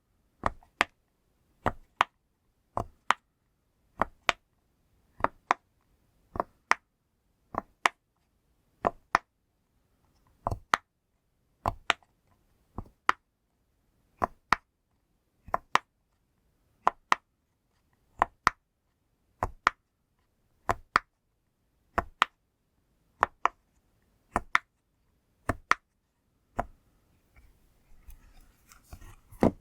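Bubbles on a push-pop fidget toy being pressed one after another, giving sharp pops, mostly in quick pairs about once a second. A faint rustle comes near the end.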